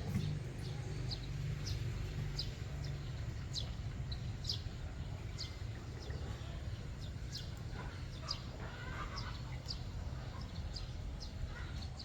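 Steady low rumble of a moving train heard from inside the carriage, with short high squeaks or chirps every second or so.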